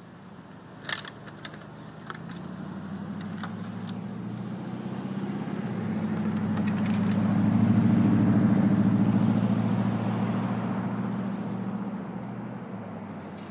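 A car engine running at low speed, a steady low hum that grows louder to a peak near the middle and then fades. A few sharp clicks come about a second in.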